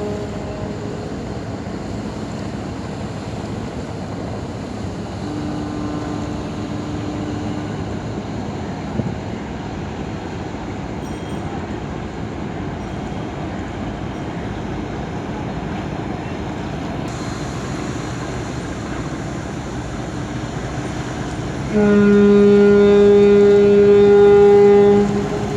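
Ship's horn: a faint, lower blast a few seconds in, then a loud, long blast of about three seconds near the end, over a steady background noise.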